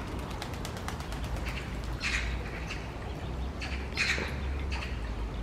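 Duckling peeping: short, high calls in small clusters, about two seconds in and again about four seconds in.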